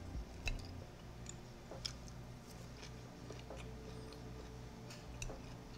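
Quiet chewing of a mouthful of food, with a few faint scattered clicks.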